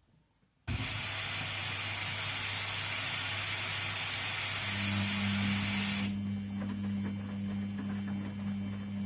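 Washing machine with water hissing into the drum: the rush starts abruptly just under a second in and cuts off about 6 seconds in, over a steady low hum that carries on after it.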